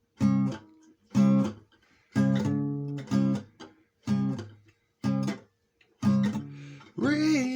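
Acoustic guitar strumming chords, about one strum a second with short gaps between, as the song's intro.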